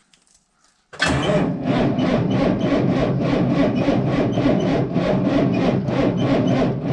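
Engine being cranked by its starter, turning over in a steady rhythm of about three pulses a second from about a second in, without firing: the engine won't start.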